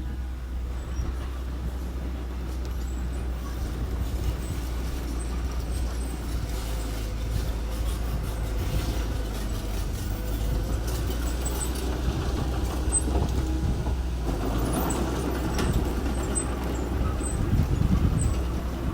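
Engine of a bulldozer or dump truck running steadily with a low rumble, growing louder over the last few seconds.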